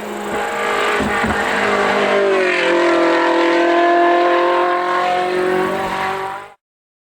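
Ferrari 458 Challenge's 4.5-litre V8 running hard: the revs sag briefly with a few low thuds about a second in, then climb and hold high until the sound cuts off suddenly near the end.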